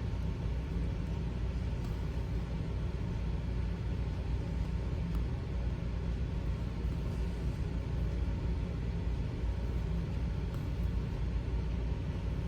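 A steady low rumble with a few faint ticks now and then.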